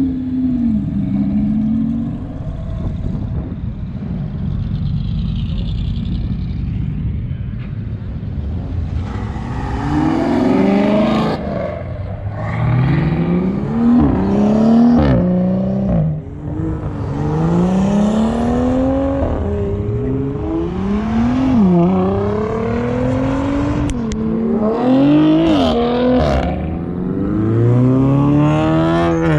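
Car engine running with a low rumble, then from about a third of the way in revved over and over, the pitch climbing and dropping back every second or two.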